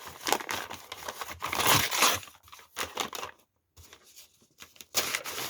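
Parcel packaging being torn and rustled open by hand, a crinkly rustling that stops for about a second and a half past the middle and starts again near the end.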